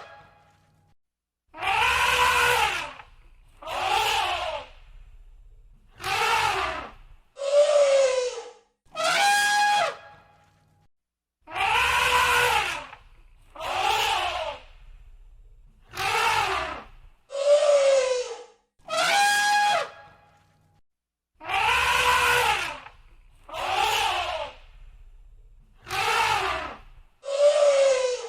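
Elephant trumpeting: a run of loud, brassy trunk calls about two seconds apart, some rising and falling in pitch and some held on one note. The same set of about five calls repeats about every ten seconds.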